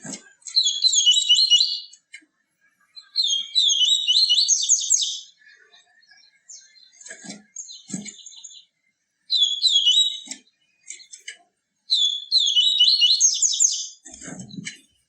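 A papa-capim seedeater sings its 'tui tui viviti' song in four bursts of rapid, chirpy phrases, each one to two seconds long, with softer scattered notes between them. A few short low knocks come in the middle and near the end.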